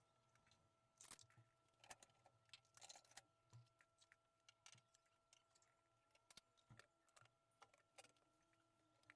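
Near silence with faint, scattered light clicks and taps at irregular intervals over a faint steady hum.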